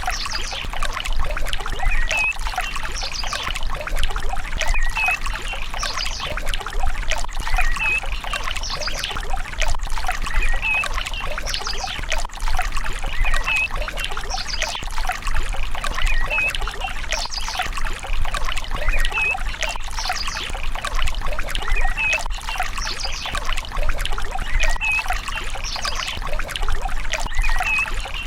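Water pouring and trickling steadily, with a low hum under it and a short high chirp that comes back about every three seconds.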